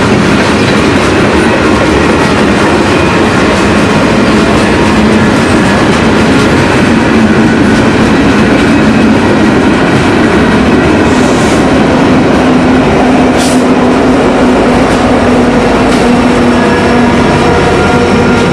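Train running: a loud, steady rumble with a steady droning tone underneath, and a brief high hiss about thirteen seconds in.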